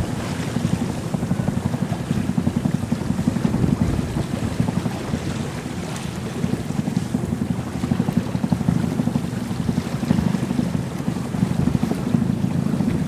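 Wind buffeting the microphone in a steady, fluttering rumble over the rush of water along a sailboat's hull while it sails in a fresh breeze.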